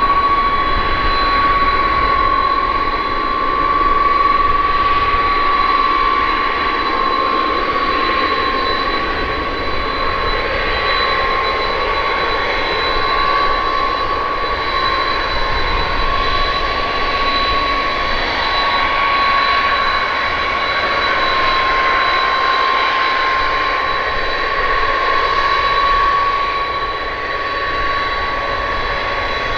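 KDC-10 Extender's General Electric CF6 turbofan jet engines running loud and steady, with a high whine held at one pitch over the engine noise.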